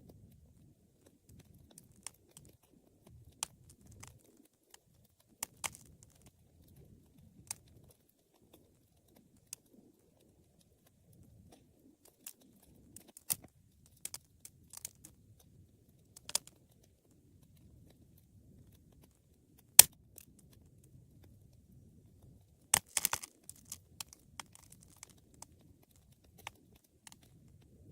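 Wood fire crackling in a fireplace: irregular sharp pops and snaps over the faint low rumble of the flames. The loudest snap comes about twenty seconds in, followed a few seconds later by a quick cluster of crackles.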